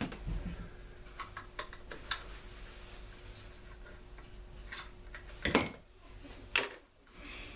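Tools and small metal parts clinking and tapping during disassembly of a leaf blower, with two louder clanks near the end, about a second apart.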